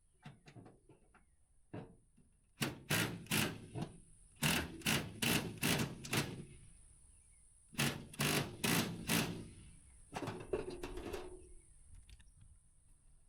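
Sharp knocks or blows in four bunches of three to five strokes each, about three a second, on the truck's toolbox support as it is fitted and checked for tightness.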